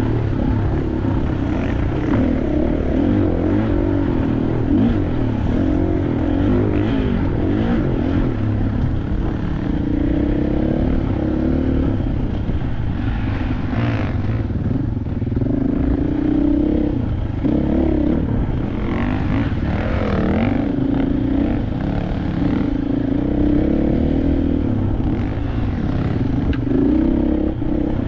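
KTM 500 dirt bike's single-cylinder four-stroke engine running under way off-road, its note rising and falling as the throttle opens and closes.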